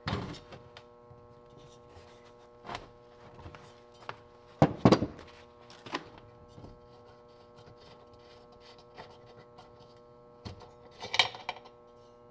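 Scattered knocks, clicks and rubs of the old lantern's metal parts being handled and worked during disassembly, loudest about five seconds in and again near the end, over a faint steady hum.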